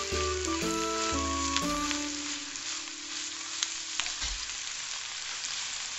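Spinach and bacon sizzling in butter in a frying pan while being turned with chopsticks, a steady hiss with a few faint clicks.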